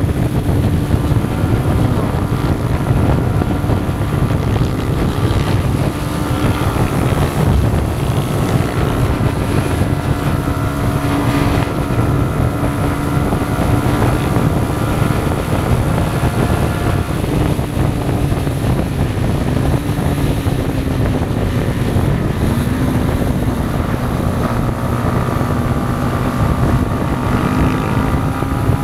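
Yamaha MT-125's single-cylinder four-stroke engine running at fairly steady cruising revs, the pitch easing down a little past halfway, with wind rushing over the microphone.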